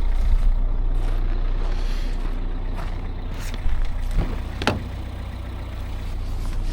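Engine idling with a steady low rumble, and a few short knocks about four seconds in.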